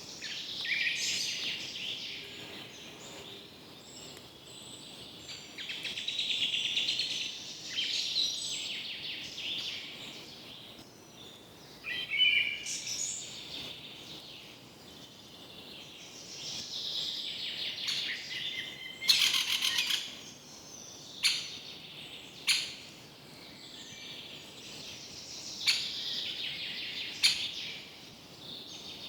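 Several birds calling and chirping, with overlapping high-pitched calls and trills. In the second half there are a handful of sudden, sharp, short notes.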